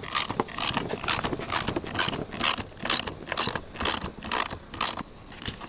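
Hand ratchet wrench clicking in short strokes, about two a second, as a bolt on the truck door's vent window frame is turned out; the clicking stops about five seconds in.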